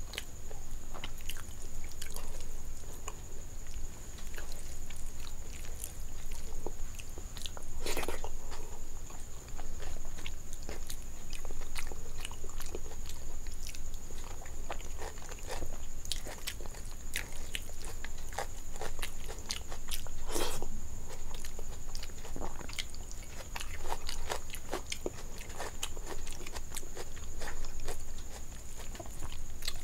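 Close-miked eating sounds of rice and curry eaten by hand: chewing, with many short wet mouth clicks and smacks and the squish of fingers mixing rice on the plate. A faint steady high tone runs underneath.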